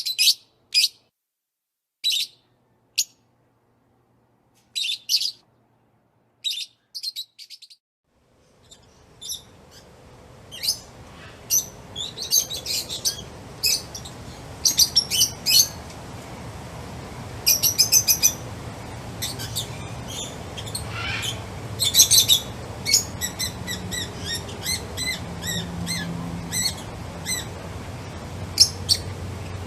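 Songbirds chirping: separate short chirps over silence for the first several seconds, then, from about eight seconds in, a dense chorus of chirps and trills over a steady background hiss.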